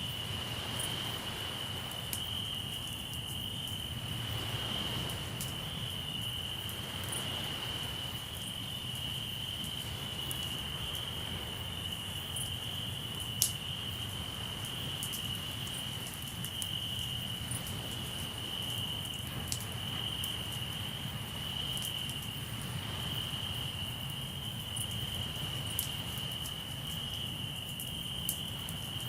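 Crickets trilling in one steady, unbroken high tone over the low wash of the sea, with swells of surf now and then. A campfire crackles with scattered sharp pops, one loud pop about halfway through.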